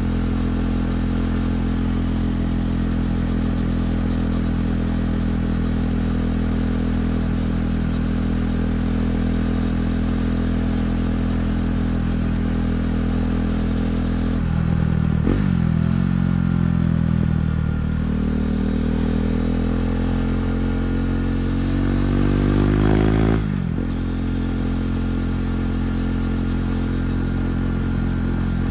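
KTM 390 Duke's single-cylinder engine through an Akrapovic exhaust, running at a steady low note, then blipped briefly about halfway through. It then climbs in pitch for about five seconds before dropping suddenly as the throttle is closed or a gear is changed, and settles back to a steady note.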